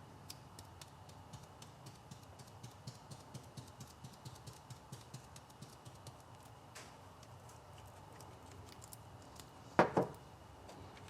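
Light, rapid clicking and tapping as silver mini metal flake is shaken out of its container into the mixed intercoat clear, about three or four clicks a second, thinning out after about six seconds. Two louder knocks follow near the end.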